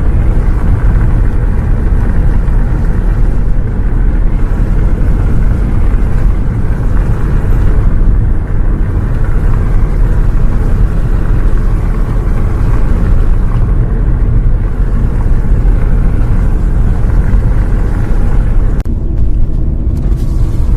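Bus in motion heard from inside the cabin: a loud, steady low rumble of engine and road noise that cuts in abruptly at the start.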